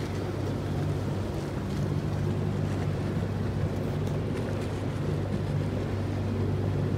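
Boat motor running steadily at a constant pitch, with wind buffeting the microphone.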